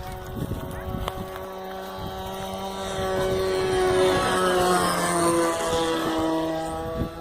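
Airplane engine drone passing overhead: it grows louder to a peak about four seconds in, its pitch drops slightly as it goes by, then it begins to fade.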